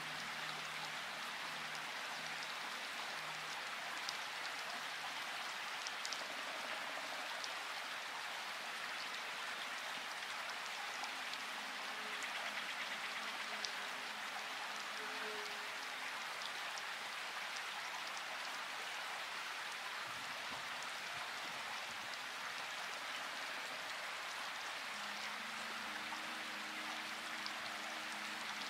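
Steady rainfall, an even hiss of rain with a few separate drops ticking now and then. Faint low steady tones come and go underneath.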